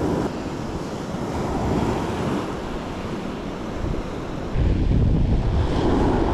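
Wind buffeting the microphone over surf washing on the shore; the wind rumble gets stronger about four and a half seconds in.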